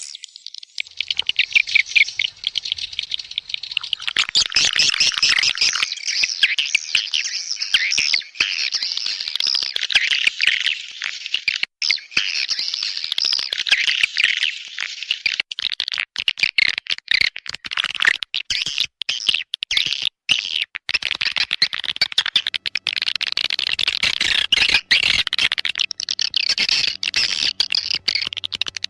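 Swiftlet lure call, the recorded chirping of edible-nest swiftlets played to draw the birds into a nesting house: a dense, continuous, high-pitched twittering, broken by a few brief cut-outs.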